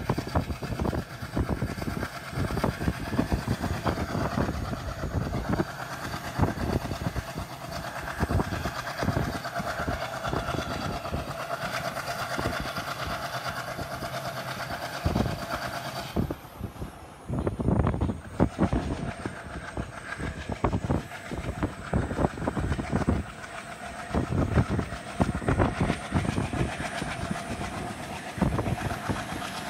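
Passenger train running at speed, its wheels clattering over the rail joints in a dense, irregular stream of clicks over a steady rumble. A little past halfway the sound changes abruptly.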